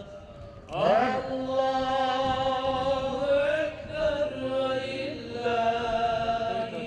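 A voice chanting an Islamic religious chant in long, drawn-out melodic phrases. It opens with a rising slide about a second in, then holds and bends sustained notes.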